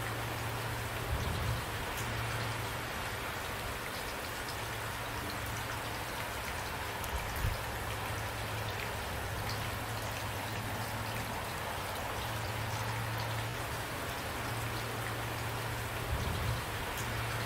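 Steady rain: an even hiss of falling water with single drops ticking through it over a low steady rumble, and three brief low thumps, about a second in, midway and near the end.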